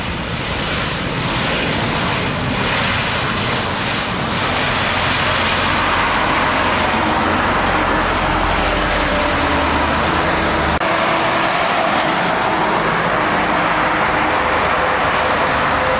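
Boeing 737 airliner's jet engines passing on landing approach, a broad roar that swells over the first several seconds and then holds steady and loud.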